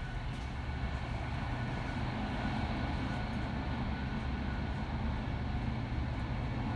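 Steady low rumble of a Finnish InterCity double-decker train in motion, heard from inside the carriage, with a faint steady whine above it.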